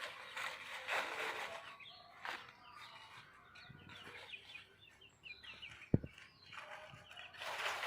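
Hens clucking while foraging, with a run of short high chirps in the middle and a single sharp thump about six seconds in.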